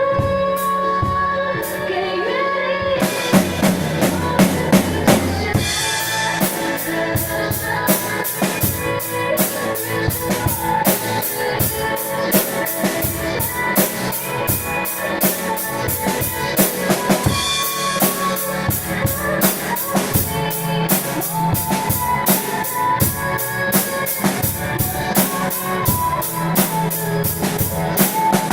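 Drum kit played along with a recorded pop song: the drums come in about three seconds in and keep a busy, steady beat of kick, snare and cymbal strokes over the music.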